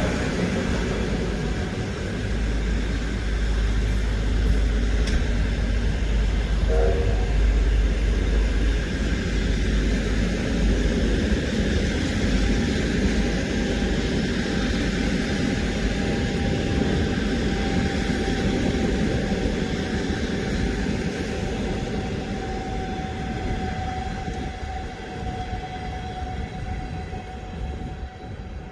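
A steam-hauled passenger train rolling past on the rails: a steady, heavy rumble of the carriages that fades away near the end as the train moves off.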